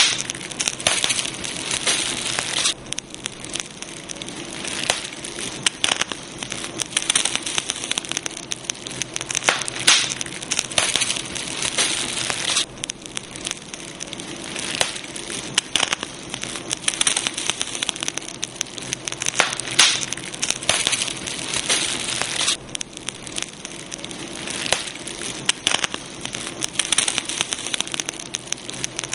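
Campfire burning, with a steady hiss and frequent irregular crackles and pops from the burning wood.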